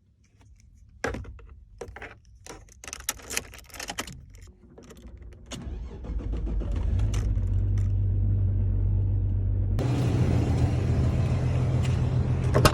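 Keys jangling with a few clicks and knocks, then about five seconds in a car engine comes on and runs with a steady low hum. Near ten seconds the sound steps up abruptly into louder, broader running noise.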